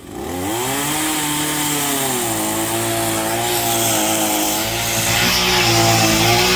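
Chainsaw revved back up right at the start, then running at high speed, its pitch sagging slightly now and then under the load of cutting through a tree branch.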